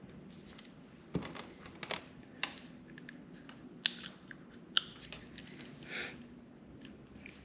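Crimped terminal pins being pushed into a plastic wiring connector housing: scattered small plastic clicks and wire rustling, with two sharp clicks about four and five seconds in as the pins seat.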